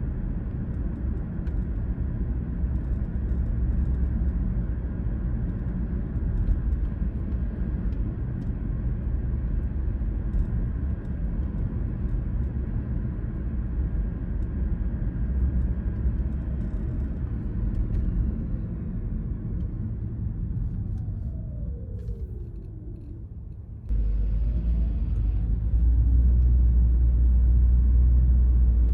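Car driving on suburban roads: a steady low rumble of engine and tyres. Past the middle a whine falls in pitch as the sound dies down. About five seconds before the end a louder low rumble comes in suddenly.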